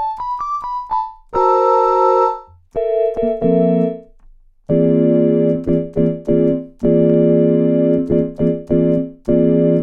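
Piano-type keyboard sound from a Maschine+ groovebox, played from an ESI Xkey 37 MIDI keyboard: a quick rising run of single notes, then a few held chords and a string of short repeated chords.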